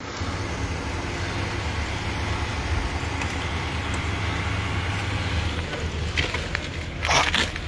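A heavy vehicle's engine idling, a steady low rumble, with a few brief sharper noises near the end.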